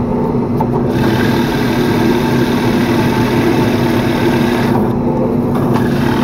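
Woodworking machine running steadily, with the hiss of its cutter working into maple starting about a second in and breaking off briefly near the end.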